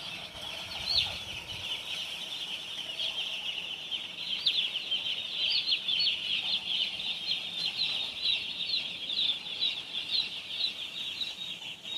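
A flock of day-old chicks peeping all together: a dense, continuous chorus of many short, high chirps overlapping one another, growing busier about four seconds in.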